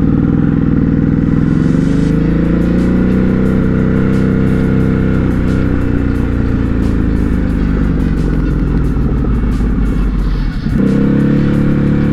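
Ducati Hypermotard 950's L-twin engine running under the rider, pulling up in pitch over the first couple of seconds, holding, then easing off. Near the end the engine note drops briefly and then picks up again at a higher, steady pitch.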